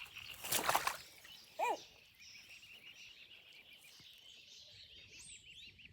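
Swan cygnets peeping: a run of short, high peeps, several a second, starting about two seconds in. Before them come a brief rushing noise and one short, lower call.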